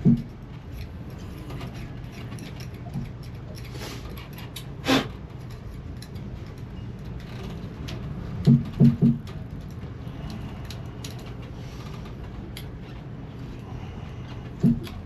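Hand-tool work on a marine diesel's fittings: a handful of short metallic knocks and clinks, three in quick succession about halfway through, over a steady low hum.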